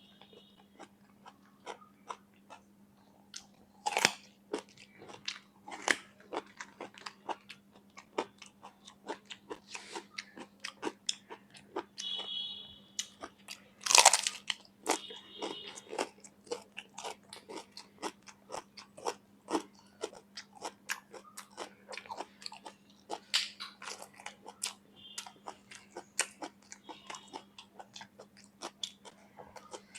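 A person biting and chewing crunchy raw vegetables: a steady run of crisp crunches, with the two loudest bites about four and fourteen seconds in. A steady low hum runs underneath.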